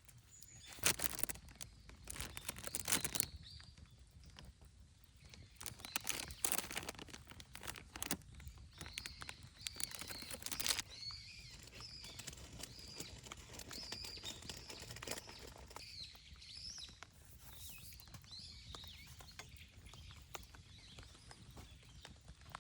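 Irregular rustling and handling noises, loudest in the first half, with a bird chirping repeatedly in the background through the middle stretch.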